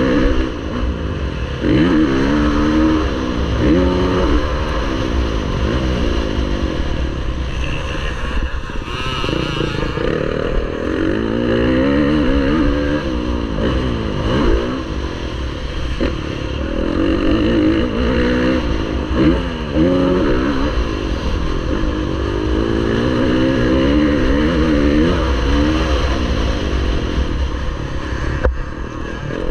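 Motocross bike engine racing, its pitch repeatedly climbing under throttle and dropping off every couple of seconds as the rider accelerates and backs off, over a heavy low wind rumble.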